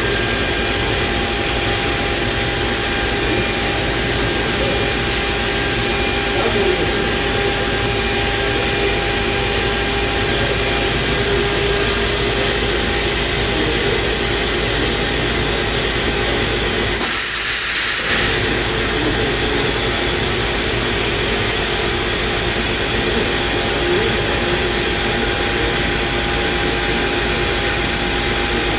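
Morbidelli Universal NB 3615 CNC router running steadily, a constant machine noise with a few held whining tones. About two-thirds of the way through, a short hiss of air lasts about a second.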